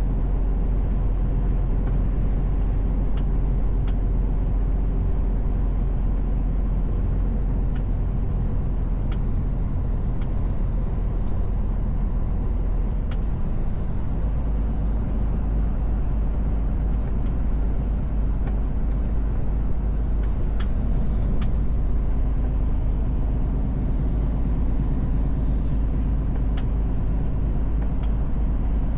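Mercedes Actros L truck's diesel engine and road noise droning steadily under way, heard from inside the cab; the deepest part of the engine note shifts about halfway through, and a few faint clicks come and go.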